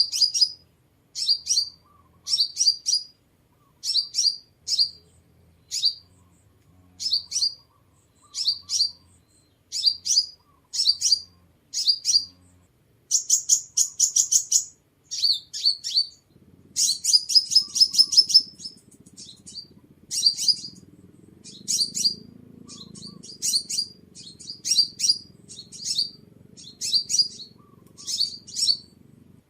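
Sunbird song: short, high twittering chirp phrases repeated about every second and a half, with a denser, louder run of trills about halfway through.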